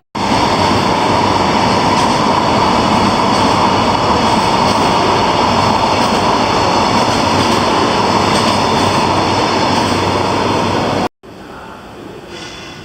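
Train running at close range: a loud, steady rushing noise that cuts off suddenly about eleven seconds in.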